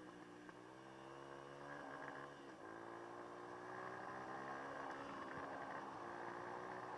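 Dirt bike engine running, its pitch climbing as it picks up speed twice in the first few seconds, then holding steady as it grows gradually louder.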